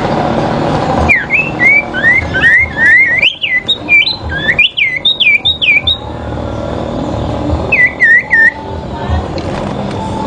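Sirpu songbird singing a fast, loud run of whistled notes that sweep up and down, then a short phrase of three falling notes near the end, over a steady background hiss.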